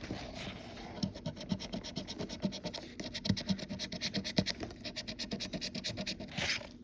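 Coin or scraper scratching the latex coating off an instant lottery scratch-off ticket: a fast run of short rasping strokes, many a second.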